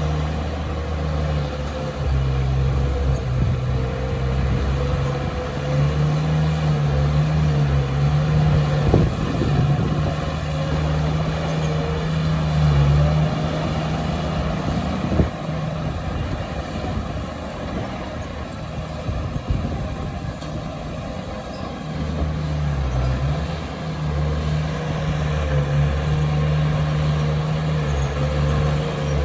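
Heavy diesel engine of earth-moving machinery running under load. Its pitch shifts and the low drone eases in the middle stretch, with a couple of brief knocks.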